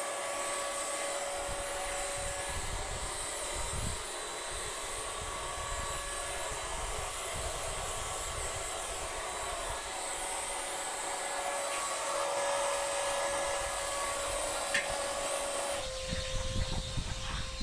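Paint Zoom handheld electric paint sprayer running, its motor-driven fan blowing and spraying with a steady airy hiss and hum. Near the end the spray hiss cuts off while a lower hum goes on.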